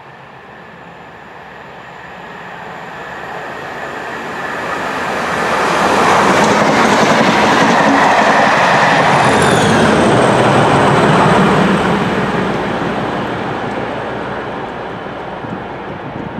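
A Class 37 diesel locomotive (37219), its English Electric V12 engine running, hauls a test train past at speed. The engine and the wheels on the rails grow louder as it approaches, are loudest for about six seconds in the middle, then fade away.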